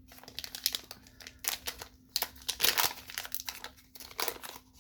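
Foil booster-pack wrapper crinkling and crackling as it is handled and opened, in a run of short bursts, loudest a little past the middle.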